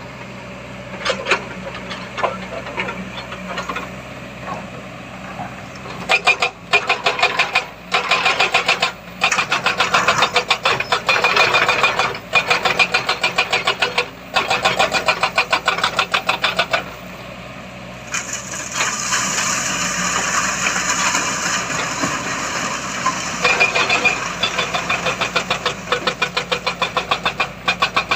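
Heavy diesel engine working hard under load, its exhaust beating in rapid, even pulses as it revs. The revving rises and drops off several times. In the middle there is a few seconds of loud hissing.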